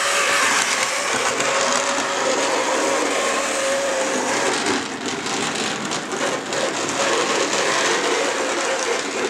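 Model British Rail Class 37 diesel locomotive running along the track: a steady whirr of its small electric motor and wheels on the rails.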